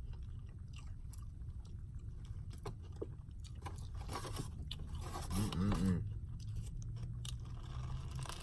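A person chewing a bite of spicy fried chicken sandwich with soft crunches and mouth clicks. Near the middle comes a short hummed "mm", the loudest sound here.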